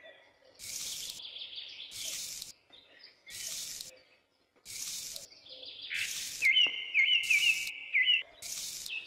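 Birds chirping, with a run of quick falling notes in the second half, over short bursts of hiss that come roughly once a second.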